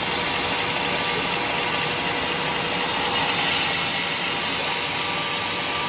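Sawmill machinery running steadily at a constant engine-like drone, with no strikes or changes in pitch.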